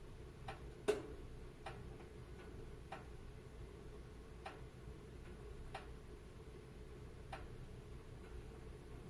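Wood fire crackling: sparse, uneven pops, one louder snap about a second in, over a low steady rumble of the burning.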